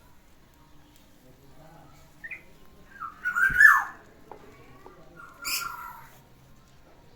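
Female yellow-vented bulbul (trucukan) calling: a short note about two seconds in, then two loud, quick warbled calls about two seconds apart, the second harsher.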